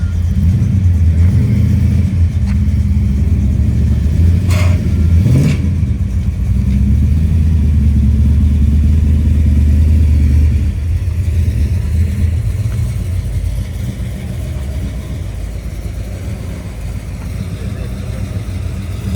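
A car's engine running with a loud, deep rumble and a brief rev about five seconds in. The rumble fades gradually over the second half.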